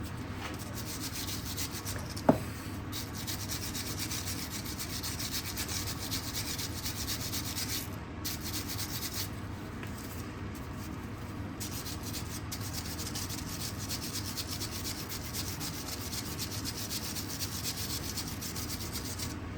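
A brush scrubbing a brake caliper carrier bracket clean, in rapid back-and-forth strokes with a few short pauses. A single sharp click sounds about two seconds in.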